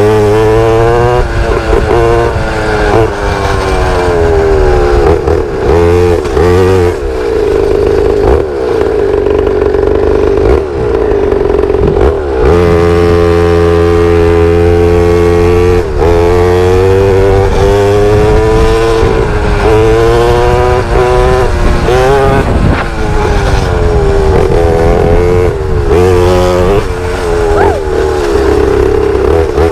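Pit bike engine running under way, its pitch climbing and dropping over and over as it is accelerated, shifted and eased off, with a few steadier stretches between.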